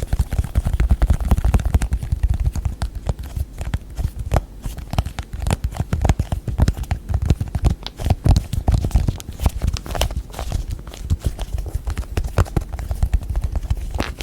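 Fingers tapping quickly on objects, a dense run of irregular taps, several a second, with no pause.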